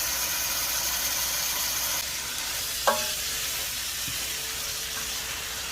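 Shredded chicken frying in chicken oil in a pan, a steady sizzling hiss that eases slightly about two seconds in.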